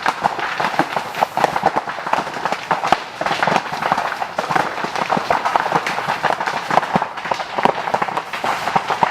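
Bamboo burning intensely: a rapid, continuous crackling and popping as the culms burst, superheated by the fire, over a steady roar of flame.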